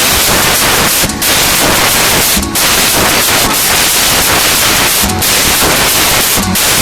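Loud, steady static-like hiss across the whole range, broken by brief dips a few times.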